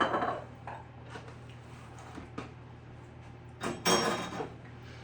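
Kitchen dishes and utensils clattering while baking: a clatter at the start, a few light clicks, then a longer clatter about four seconds in.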